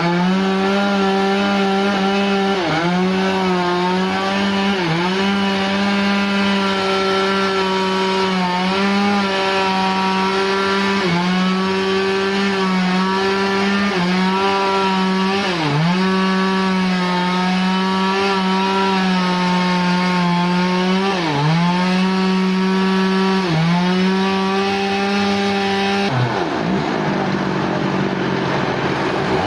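Chainsaw running at high revs while cutting a log. The engine pitch sags briefly and recovers every two to three seconds as it is pushed into the wood. Near the end the sound turns rougher and noisier.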